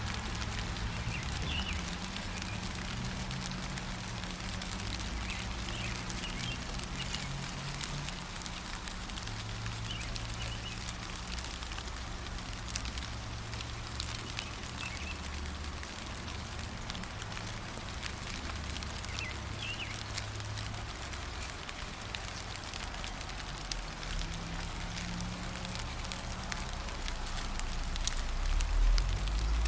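Light rain falling steadily in a pattering hiss of small drops, with short bird chirps now and then. A low rumble runs underneath and grows louder near the end.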